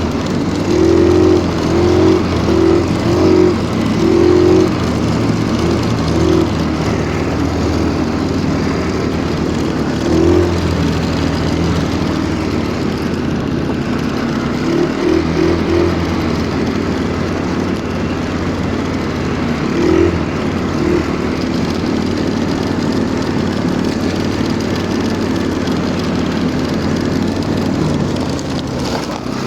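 Stels Kapitan Long snowmobile engine running under load as it packs a trail through deep snow, its revs swelling and easing in quick pulses during the first few seconds and again now and then.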